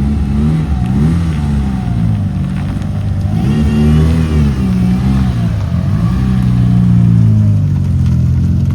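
A car engine revs up and falls back, with a blip about a second in and a longer rev about halfway through, then settles into a steady low run.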